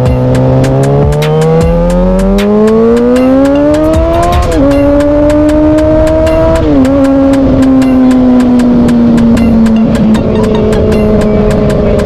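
Motorcycle engine pulling through the gears. Its pitch climbs for about four seconds, falls with an upshift, climbs again and falls with a second shift about two seconds later, then holds steady at cruise. Sharp clicks come through all along.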